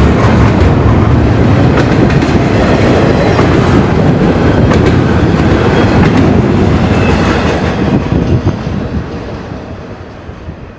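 A train passing, its wheels clicking over the rail joints, the sound fading away over the last few seconds as the train moves off.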